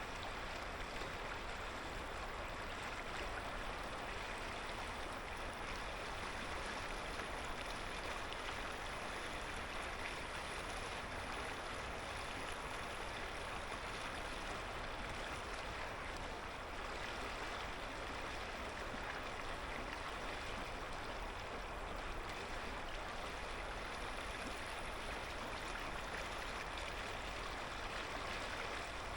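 Clear mountain river flowing: a steady, even rush of water that stays constant throughout.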